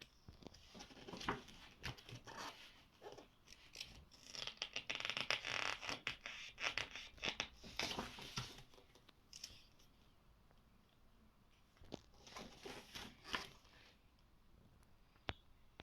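Stiff paper pages of a thick book being turned by hand: rustling and sliding with small flaps and taps, in two spells, a long one near the start and a shorter one later.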